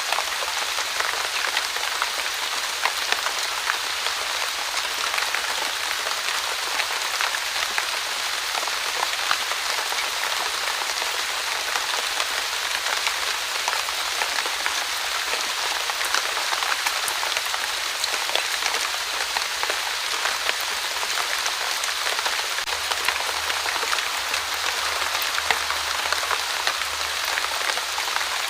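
Steady fine rain falling on a surface, an even hiss dotted with the small ticks of individual drops.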